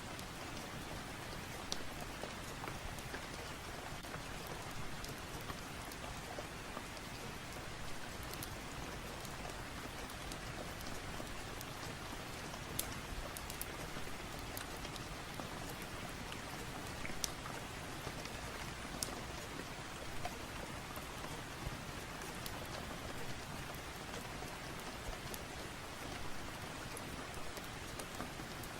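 Steady rain falling, with a few scattered sharp ticks over the even hiss.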